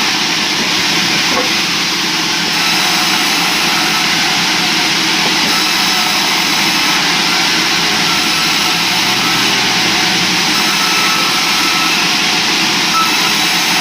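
Sawmill saw running steadily while cutting logs into square timber: a loud, continuous, even noise that holds level throughout, with machinery running beneath it.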